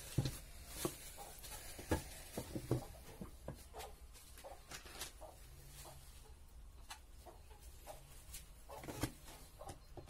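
Scattered light knocks and clicks of wooden pallet boards being handled and fitted together during hive assembly, irregular and with no steady rhythm.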